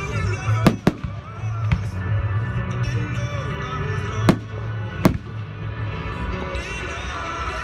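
Fireworks going off in a handful of sharp, separate bangs, about five, with music playing throughout.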